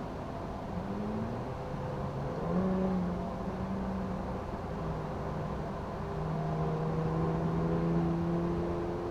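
Distant road traffic: a steady low hum with engine tones that slowly shift in pitch as vehicles speed up and slow down.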